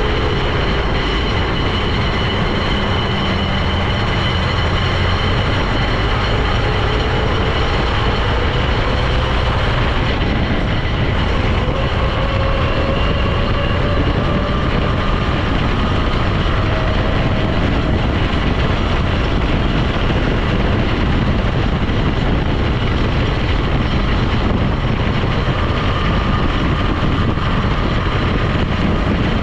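A vehicle driving along: steady, loud engine and road noise, with a faint whine that rises slowly in pitch as it gathers speed, most plainly through the middle and again near the end.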